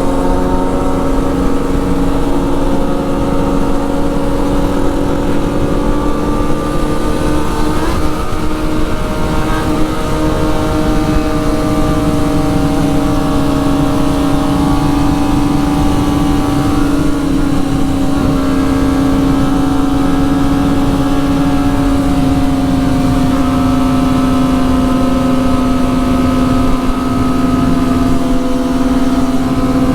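Motorcycle engine running at a steady cruising speed, its pitch drifting gently up and down with small throttle changes, over a constant rush of wind noise.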